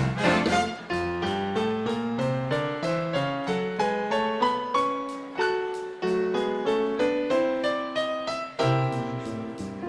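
Piano playing a melodic passage in a big-band swing number. The band plays fuller for about the first second.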